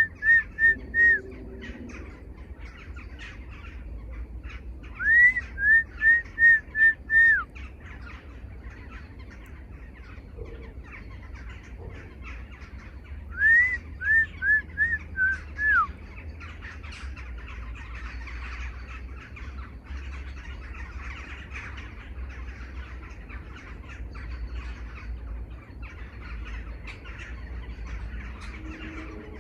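A bird calling in three bouts of five to seven loud, quick, repeated notes, each note rising and falling, with fainter chirps of other birds and a steady low rumble behind.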